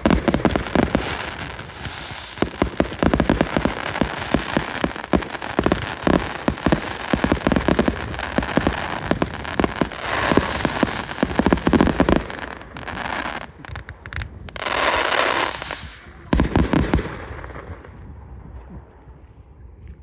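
Fireworks going off: a dense, rapid run of bangs and crackles for about twelve seconds, then a few separate loud crackling bursts, dying away near the end.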